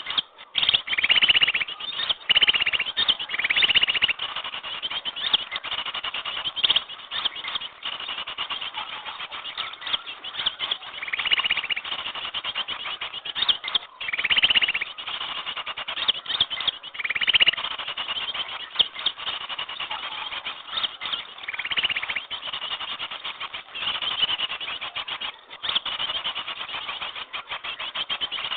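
Bird-lure recording of many small birds chattering and calling without pause, with rapid buzzy trills that recur every second or two.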